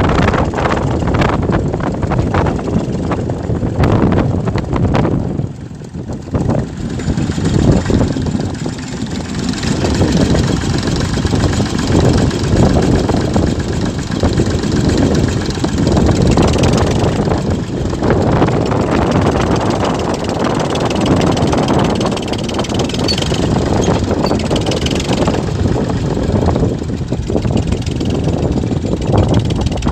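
Massey Ferguson tractor's diesel engine running, its level dipping briefly about six seconds in.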